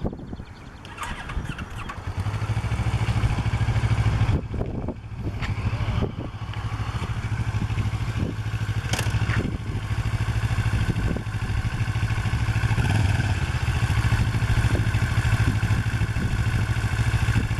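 Kawasaki Ninja 650R's parallel-twin engine idling steadily, coming in about two seconds in, with little or no throttle given. A few sharp clicks or knocks sound over it.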